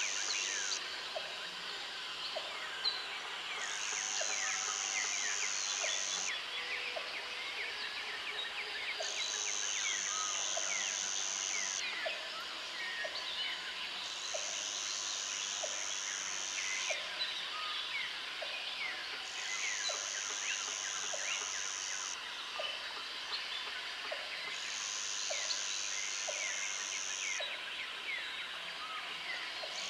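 Jungle ambience of insects and birds. A high insect buzz switches on for about two and a half seconds, then off, over and over, over a dense scatter of bird chirps. A short lower call repeats about every second and a half.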